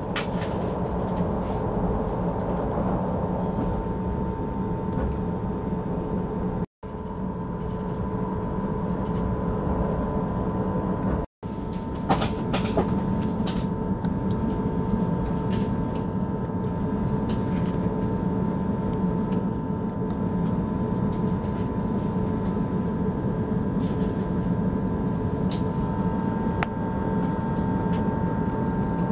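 Inside an electric passenger train running on the Bergen Line: a steady rumble with a constant hum, and scattered sharp clicks from about halfway through. The sound breaks off for an instant twice.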